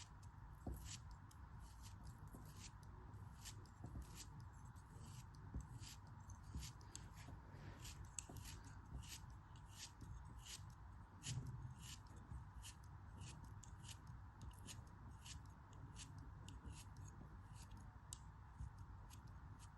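Faint, crisp clicks of a blade cutting through a soft craft block, about three a second, over a low steady hum.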